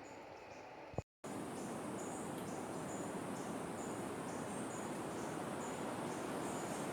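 Rainforest insects chirping in short, high-pitched pulses, a couple a second, over a steady rushing background. A click and a moment's dropout about a second in.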